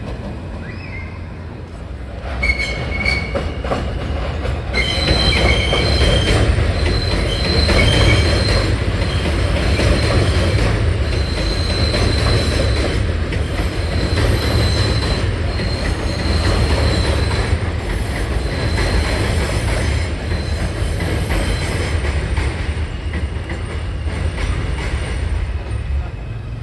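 New York City Subway M train running over the rails with a steady rumble and high-pitched wheel squeal. The squeal starts a couple of seconds in and comes and goes, and the whole sound gets louder about five seconds in.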